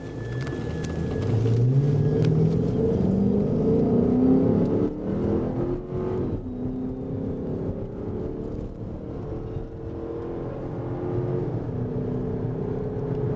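Chase car's engine accelerating hard, heard from inside the cabin: the engine pitch climbs for the first few seconds, drops at a gear change about five seconds in, changes again about a second later, then runs more steadily at speed.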